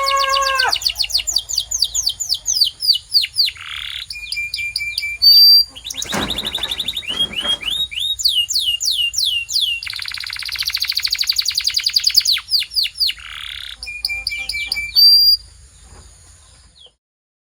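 Domestic canary singing a varied song: runs of quick repeated sweeping notes and trills, a rolling rattle about six seconds in and a dense rapid trill about ten seconds in. The song stops about fifteen seconds in.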